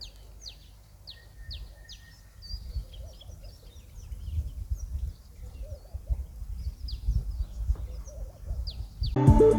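Birds calling, many short high whistles that fall in pitch and repeat every half second or so, over an uneven low rumble. Music starts suddenly near the end.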